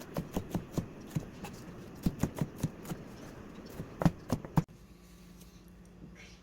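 A quick, irregular run of sharp knocks and taps from kitchen handwork on a work surface, like a knife tapping a cutting board. It stops suddenly a little past halfway, leaving a faint low hum.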